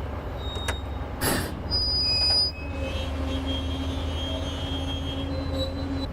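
Heavy construction machinery running with a steady low engine rumble, a short loud hiss about a second in, a high squeal just after, then a steady whine over the rumble.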